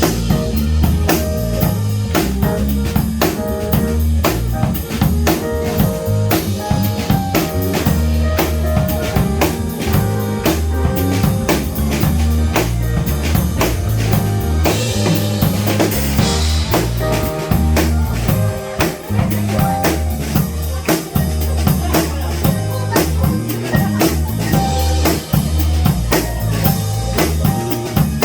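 Live jazz-funk band playing: a drum kit keeps a steady beat over a stepping bass line, with other instruments on top.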